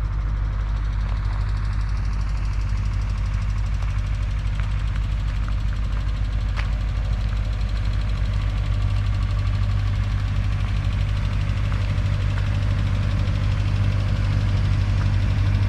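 Mazda RX-8's twin-rotor Wankel rotary engine held at a raised, steady speed of around 4,000 RPM during a warm-up run, getting a little louder near the end.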